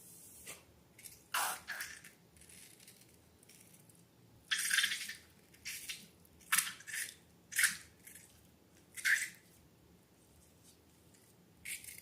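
Slime being squished and handled: about ten short, irregularly spaced wet squelches, one of them longer about four and a half seconds in.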